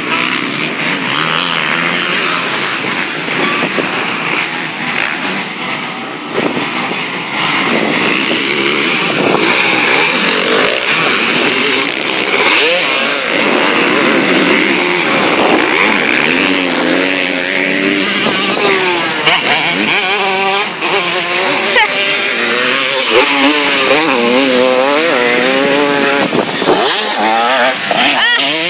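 Motocross motorcycle engines revving, their pitch rising and falling over and over as the bikes accelerate and ease off, continuously.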